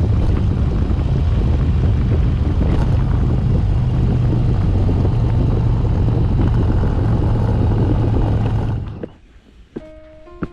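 Motorcycle engine running at a steady speed while riding, with a heavy rush of wind noise. It cuts off abruptly near the end, and a few soft music notes begin.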